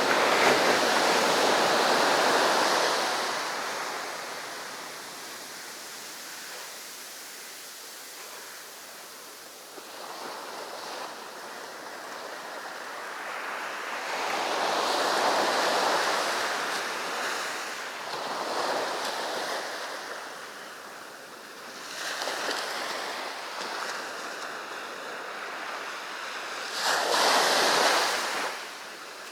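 Sea waves breaking and washing up the beach in repeated surges. The loudest wash comes at the start, with smaller swells through the middle and another strong one near the end.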